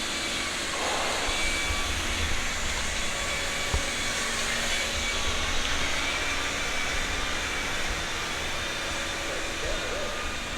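Steady machine noise with a low rumble and an airy hiss, with one sharp tap about four seconds in.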